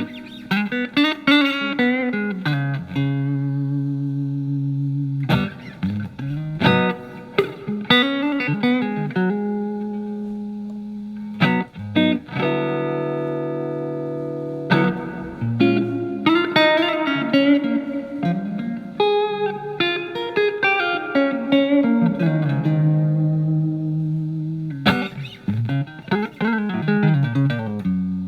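Telecaster electric guitar with single-coil alnico pickups, played through a Marshall MG15FX solid-state practice amp on its clean channel: picked single-note runs and chords in short phrases, with one chord left ringing for a couple of seconds near the middle.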